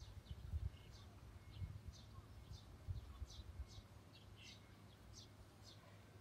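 Faint, short high chirps of a small bird, repeated about twice a second. Low bumps on the microphone come in the first three seconds.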